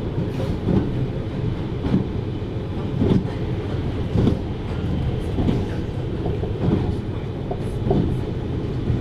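Running sound of a 733 series electric train heard from inside the passenger car: a steady rumble of wheels on the track, with a short knock about every 1.2 seconds as the wheels pass over rail joints.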